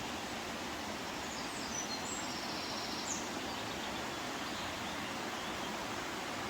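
Steady rushing of water in a beck below a waterfall that is low from dry weather, with a few faint bird chirps about one to three seconds in.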